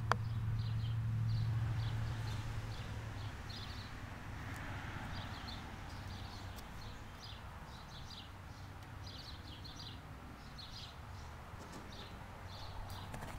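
Small birds chirping repeatedly over a low steady hum; the hum is strongest in the first few seconds, then fades.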